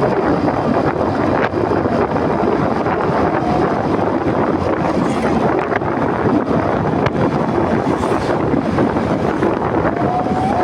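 Wind rushing over the microphone of a motorcycle rider's camera while riding, a loud, steady roar mixed with the bike's running and road noise.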